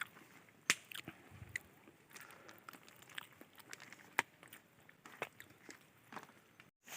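Faint, scattered clicks and crunches of a meal being eaten, chewing with the odd tap of a utensil, broken off by a moment of silence near the end.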